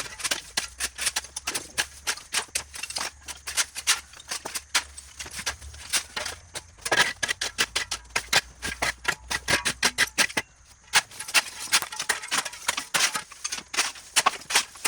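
Rapid, irregular scraping and clicking of hand tools working over debris, several strokes a second, with a short pause about two-thirds of the way through.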